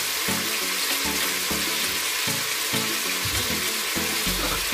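Squid pieces cooking in a stainless steel pot, giving a steady hiss of sizzling and simmering juices, with background music underneath.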